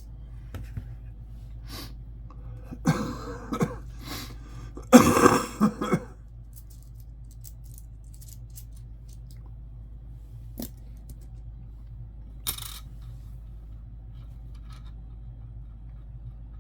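A person coughing and clearing their throat a few times, loudest about five seconds in, over a steady low hum. Scattered light clicks of coins being handled follow, with one sharp click near the end.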